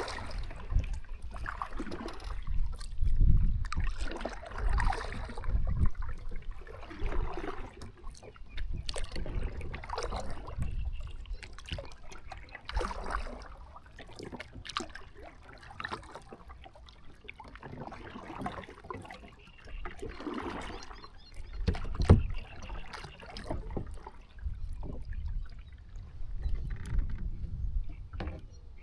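Kayak paddle strokes in the water, splashing and dripping in an uneven rhythm every second or two, over a low rumble. Two louder knocks stand out, one a few seconds in and one about two-thirds of the way through.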